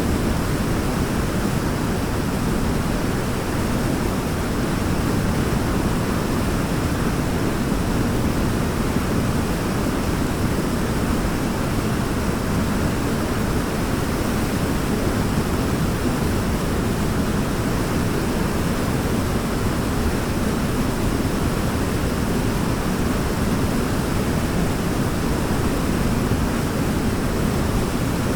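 Waterfall rushing: a steady, even roar of falling water, heaviest in the low range, with no change or break.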